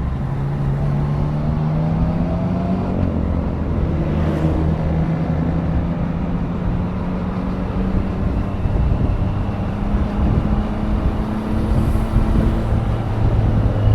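2024 Triumph Daytona 660's inline three-cylinder engine running at steady riding revs, its pitch edging up slightly in the first couple of seconds and then holding, over a constant rush of road and wind noise.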